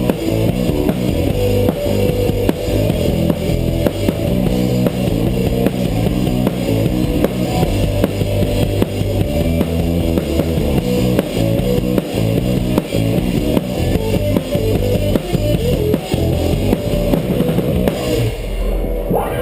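Live rock band playing an instrumental passage: a drum kit with steady bass drum, a bass line and electric guitar, with no singing. The music stops right at the end.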